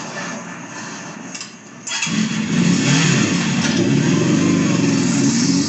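Police motorcycle engine starting suddenly about two seconds in, then revving with its pitch rising and falling.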